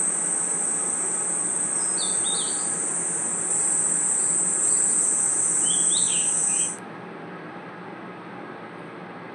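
Night insect chorus: a steady high-pitched cricket trill that cuts off suddenly about two-thirds of the way through, with a few short chirps around two and six seconds in, over a low, even hiss of outdoor ambience.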